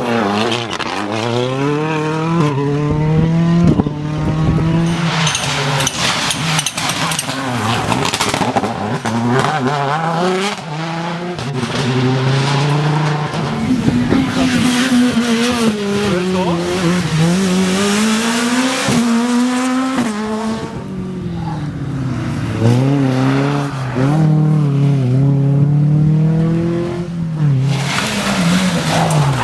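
Rally car engines revving hard through repeated gear changes: the pitch climbs, drops and climbs again as the cars drive the stage. Sharp cracks are mixed in with the engine note.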